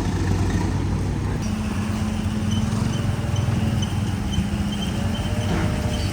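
Komatsu bulldozer's diesel engine running steadily, a constant low drone, with faint short high-pitched chirps over it.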